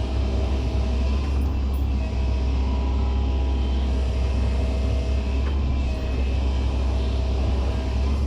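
Excavator's diesel engine running steadily under working load: a deep, even rumble with faint higher tones that come and go above it.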